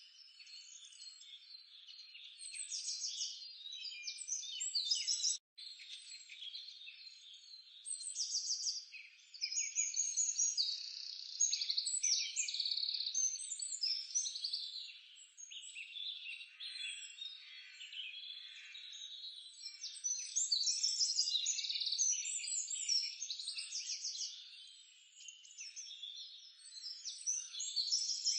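Outdoor wildlife ambience: many birds chirping and calling over one another, with rapid trilling calls, all high-pitched with nothing low underneath. The sound drops out for an instant about five seconds in.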